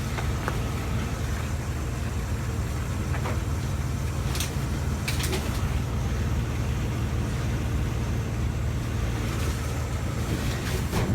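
Truck engine idling steadily, with a few short clicks and knocks over it.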